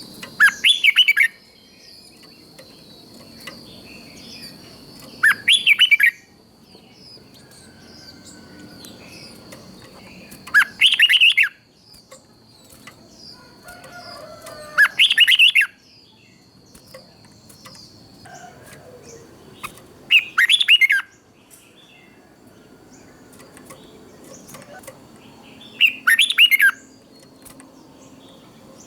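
Red-whiskered bulbul singing short, loud, warbled phrases about every five seconds, six in all, with faint chirps between them.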